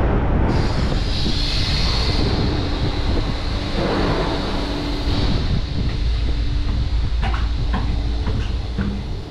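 Loud, steady low rumble of heavy running machinery, with a hiss that starts about half a second in and fades after about five seconds, then a run of light clicks and knocks near the end.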